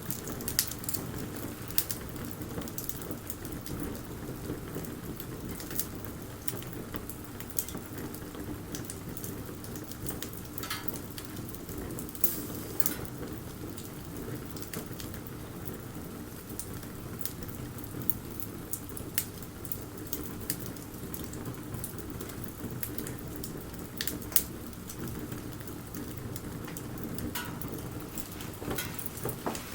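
Wood bonfire burning, with irregular sharp crackles and pops from the wood over a steady low rumble.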